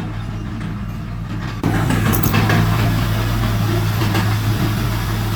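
Heavy diesel engine of earthmoving machinery running steadily at a low, even note. About a second and a half in, it suddenly becomes louder, with more clatter and noise over the engine note.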